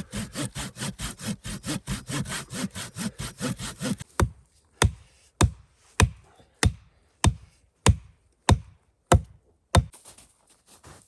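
Hand saw cutting through wood with quick, even strokes, about five a second. About four seconds in, the sawing stops and gives way to about ten sharp, evenly spaced blows on wood, such as chopping.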